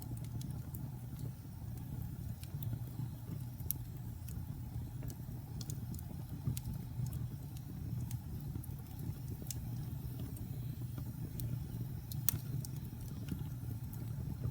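Wood fire burning in a fireplace: a steady low roar of flames with scattered sharp crackles and pops, the loudest pop about twelve seconds in.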